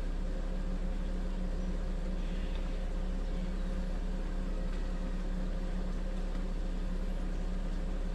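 Kings 75-litre dual-zone portable fridge's compressor running with a steady hum while cooling on maximum setting.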